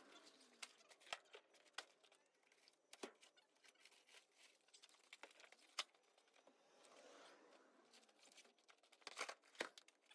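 Faint rustling and crinkling with scattered sharp clicks and taps, the sharpest a little before the middle and a quick pair near the end.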